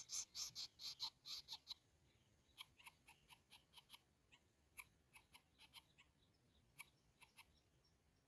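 Faint clicking calls of greater coucal chicks at the nest: a quick run of about six a second in the first two seconds, then scattered single clicks.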